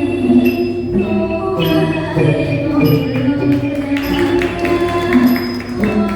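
Thai traditional music played live by an ensemble: sustained melodic notes over a steady run of bright metallic percussion strikes.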